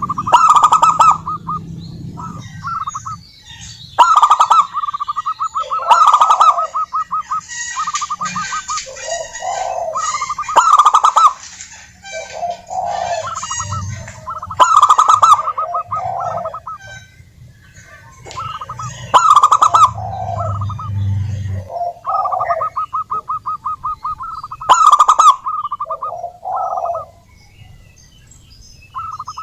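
Zebra doves (perkutut) cooing: phrases of quick rattling notes run into lower, rounder coos, repeating every few seconds.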